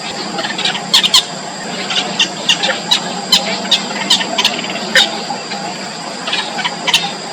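Nestling songbirds giving short, sharp begging cheeps in irregular clusters, typical of chicks calling to be fed. A steady high whine and low hum run underneath.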